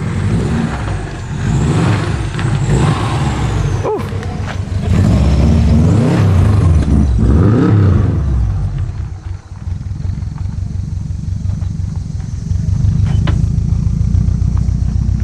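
Car engine running close by, revved up and down a few times in the middle, then settling to a steady, loud rumble.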